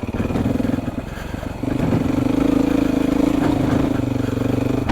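Beta 430 RR single-cylinder four-stroke dirt bike engine running under the rider on a trail, throttle eased off about a second in and opened back up about half a second later, then held steady.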